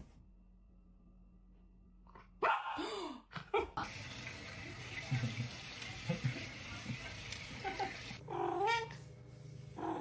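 A pet's short calls, the first loud and sudden about two and a half seconds in and falling-pitched calls near the end, with a few seconds of steady rushing noise like running water in the middle.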